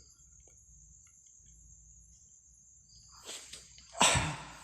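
Crickets chirping in a faint, steady high trill. A short burst of noise comes about three seconds in, then a sudden loud one about four seconds in that dies away within half a second.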